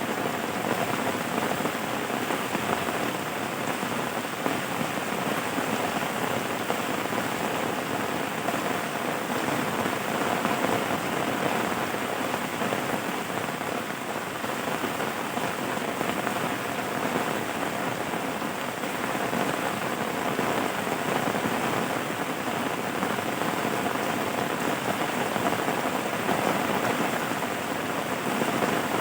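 Steady rain falling in an even, dense patter that neither builds nor fades.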